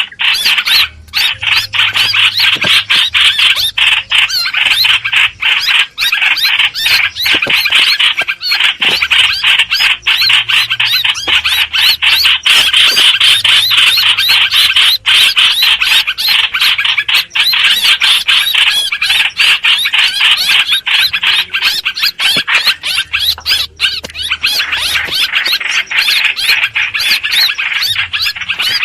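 Hoành hoạch bird calling in a loud, unbroken stream of rapid, high, squealing chatter: a lure call used to draw the bird in for trapping.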